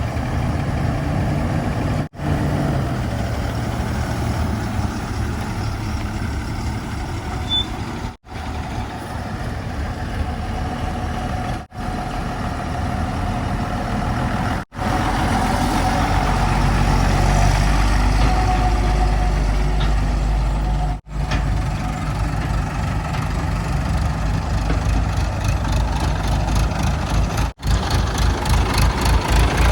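Heavy diesel engines running and idling, with a deep low rumble. The audio cuts off briefly several times between short clips. Near the end the engine's firing pulses are heard as an even throb.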